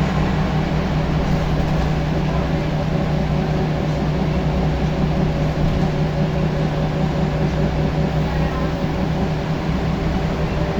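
Scania L94UB single-decker bus's diesel engine running steadily while under way, heard from inside the bus, with a steady hum and general road and cabin noise.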